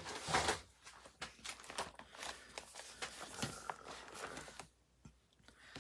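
Paper rustling with light taps and clicks as craft supplies and a scrap of paper are handled on a desk, loudest in the first half-second and quieter near the end.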